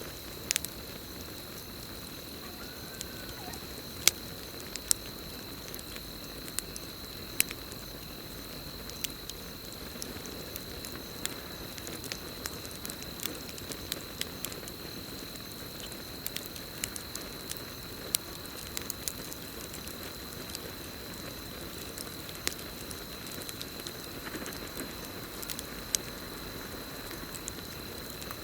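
Campfire crackling, with sharp irregular pops over a low steady rush. A steady high trill of crickets runs underneath.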